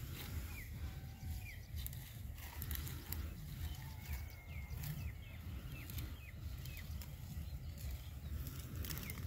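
Small birds calling in short, repeated chirps, thickest in the middle, over a steady low rumble, with scattered faint clicks.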